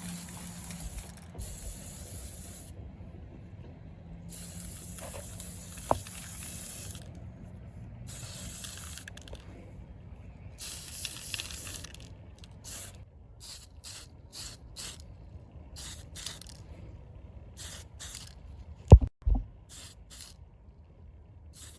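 Aerosol spray paint can spraying in repeated hissing bursts: several long bursts first, then a quick run of short ones. A couple of sharp thumps come near the end.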